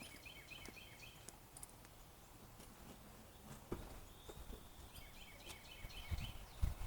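Quiet outdoor background in which a songbird gives two short phrases of rapid repeated chirps, one at the start and one about five seconds in. Light scattered clicks are heard throughout, and a low rumble starts to build near the end.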